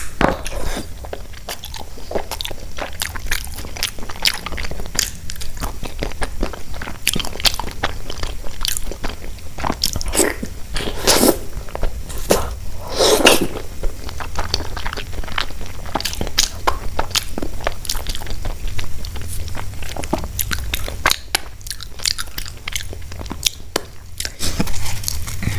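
Close-miked chewing of fried Indian bread (kachori and paratha): a run of crisp bites, crunches and wet crackly mouth clicks, with a few louder bites.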